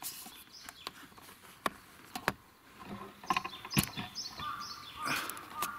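Small birds singing in short falling chirps, repeated in little runs, with a few sharp clicks and knocks; the loudest click comes a little before four seconds in.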